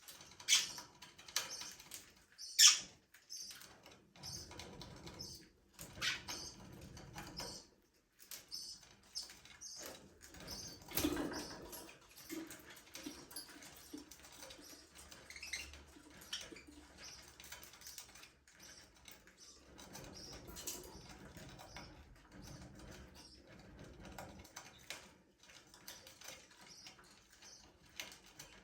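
Budgerigars in a small aviary, with scattered chirps, wing flutters and many small clicks and scratches. The sharpest click comes a few seconds in.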